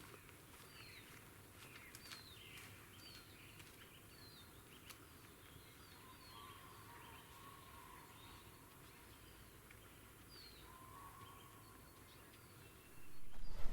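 Faint birdsong in spring woodland: several small birds repeating short, falling chirps, with a longer steady whistle twice. Just before the end a much louder noise starts abruptly.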